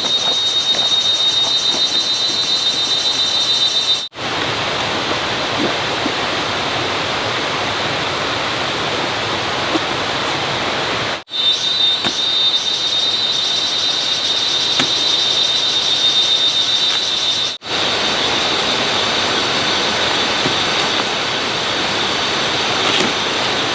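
Steady rushing noise, with a high steady whine in some stretches; it breaks off abruptly three times and resumes at once.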